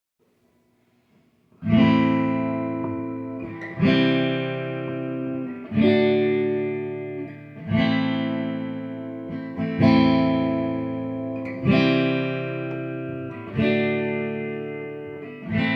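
Guitar intro: after a moment of quiet, a chord is struck about every two seconds and left to ring out slowly.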